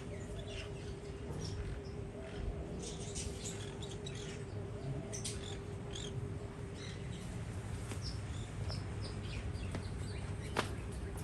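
Small aviary birds such as finches chirping, many short, high chirps scattered irregularly over a faint steady hum, with one sharp click near the end.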